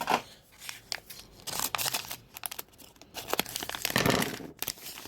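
Plastic packaging being torn open and crinkled by hand, in irregular crackling bursts with a louder rustle about four seconds in.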